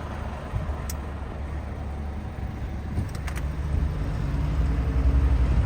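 Fire engine driving off, its engine running with a low rumble that grows louder toward the end.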